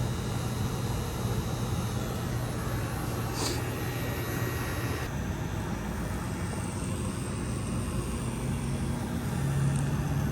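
A steady low mechanical hum over a noisy background, with a short high hiss about three and a half seconds in; the hum grows louder and slightly higher near the end.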